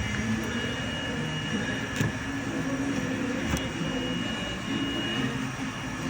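Steady low mechanical hum with a faint hiss, broken by two soft clicks about two and three and a half seconds in.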